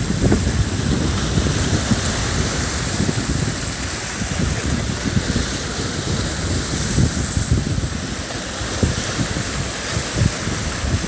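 Wind buffeting the microphone in irregular low gusts over the steady hiss of sea surf.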